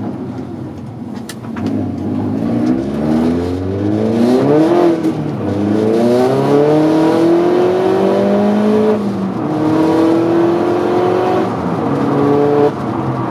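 Skoda Fabia drag car's 1.8-litre turbocharged four-cylinder engine and exhaust under hard acceleration. The pitch climbs over a few seconds and drops sharply about three times as it shifts up through the gears.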